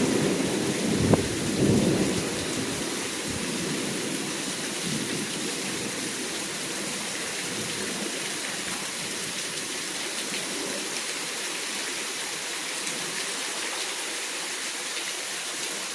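Thunder rumbling and dying away over the first few seconds, then steady heavy rain.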